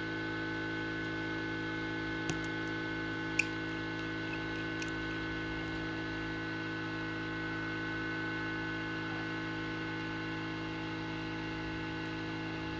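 Steady electrical mains hum made up of several steady tones. Two small sharp clicks a few seconds in, the second louder.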